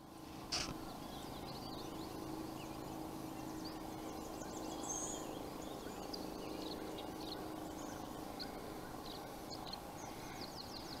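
Scattered short bird chirps and calls over a faint steady low hum, with one louder, sharp sound about half a second in.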